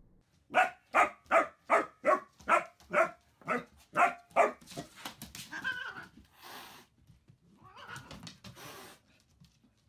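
Puppy barking in a quick run of about ten short, high yaps, two or three a second, over the first half, followed by only faint scattered sounds.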